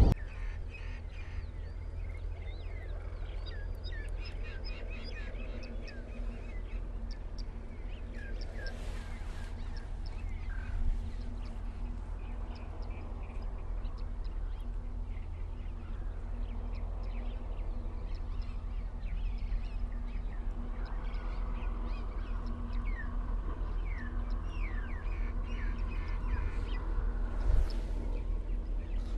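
Birds chirping repeatedly in short calls over a steady low rumble.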